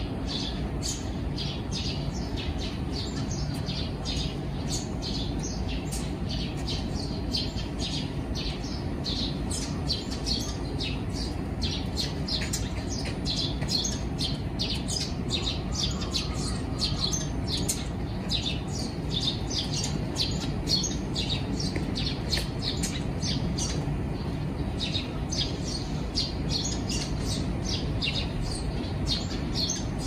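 Small birds chirping and twittering busily, several short calls a second, over a low steady background rumble.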